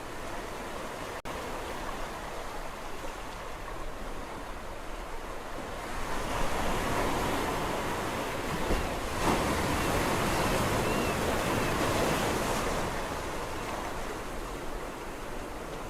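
Sea waves on a shore: a steady wash of surf, with a bigger wave breaking and rushing in about six seconds in, hissing louder for several seconds before easing back.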